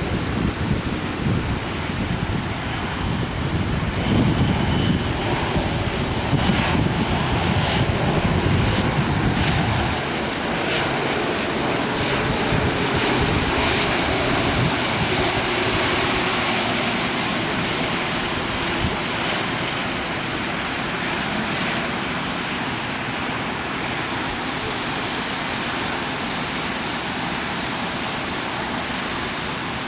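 Jet airliner engine noise as a steady rush, mixed with wind buffeting the microphone, heaviest for the first ten seconds or so. The rush swells a little past the middle, then eases.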